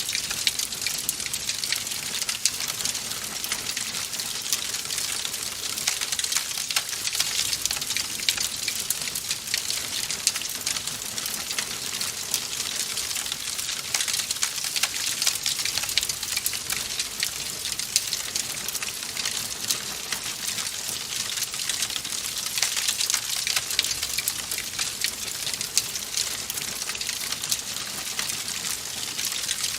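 Wood fire crackling in a fireplace: a dense, continuous stream of small pops and snaps over a steady hiss.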